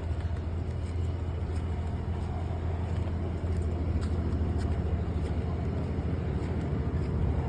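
Steady low rumble of a running car engine.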